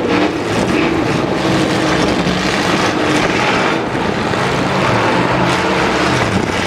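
Several demolition derby trucks' engines running and revving at once, loud, with pitches rising and falling as they drive.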